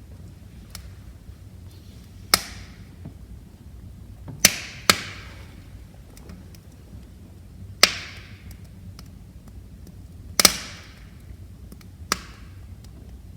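Wood fire crackling in a fireplace, with six sharp pops at irregular intervals, each trailing off in a brief hiss, over a low steady rumble of the flames and fainter ticks.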